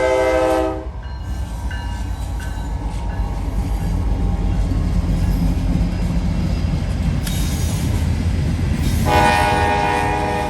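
A freight locomotive's chord horn, an AC-44-type horn on a CSX diesel, finishes a blast in the first second, then the train rumbles past. A second horn blast sounds about nine seconds in.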